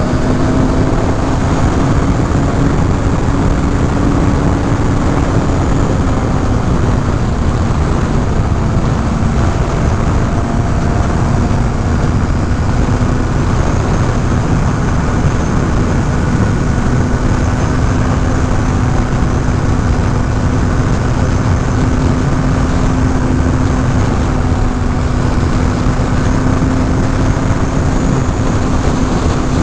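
Kawasaki Ninja ZX-6R inline-four engine running at steady cruising revs, with a slight rise and dip in pitch in the first few seconds. Heavy wind rush over the microphone runs under it.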